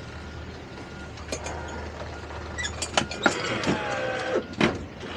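Anchor chain and windlass gear on a boat giving a series of sharp knocks and creaks as the windlass strains to lift the chain, over a steady low engine hum that fades about halfway through.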